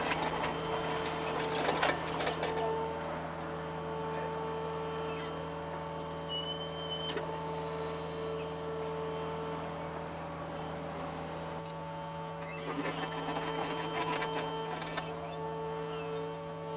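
John Deere compact excavator at work: steady engine hum with a whine from the hydraulics that drops out and comes back several times. The bucket scrapes and crunches into soil and stone about two seconds in and again near the end.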